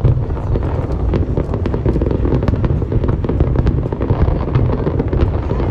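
Aerial fireworks display: overlapping shell bursts merge into a continuous loud low rumble, with many sharp, irregular crackles on top.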